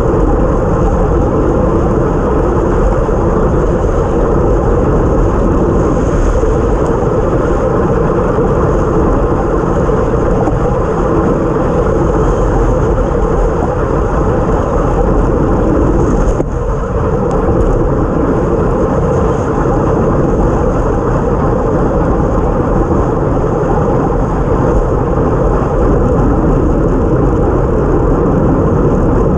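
Steady rush of wind and road noise on a race cycle's mount-fixed action camera microphone while riding at speed on a wet road, with a brief dip about sixteen seconds in.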